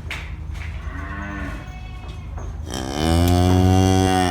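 Cow mooing: a soft, short moo about a second in, then one long, loud, low moo near the end.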